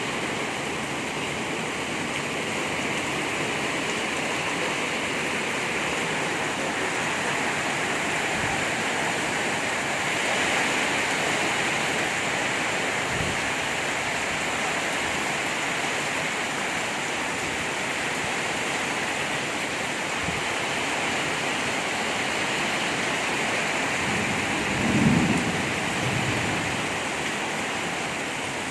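Heavy rain pouring steadily in a thunderstorm, with a short low rumble of thunder near the end.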